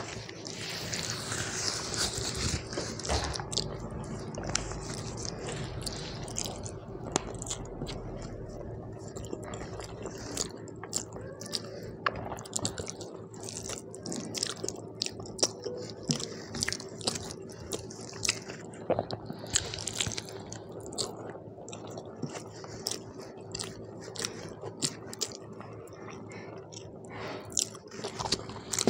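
Close-miked eating: chewing with wet mouth smacks and many short clicks, mixed with the soft squish of fingers working rice and curry together. A faint steady hum runs underneath.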